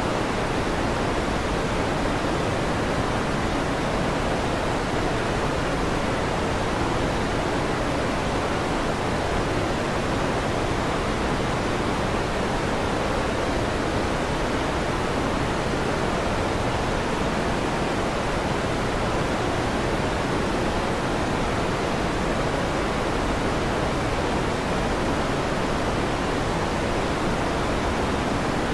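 Electric fan running steadily: a constant, even whoosh with no changes or thunder claps.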